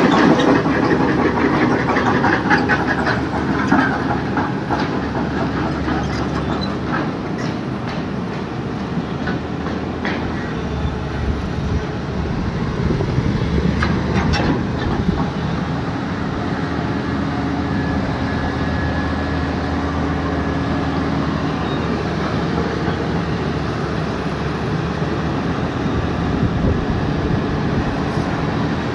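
Excavator working: its diesel engine running steadily, with bursts of metallic clanking and knocking in the first few seconds and again about halfway through.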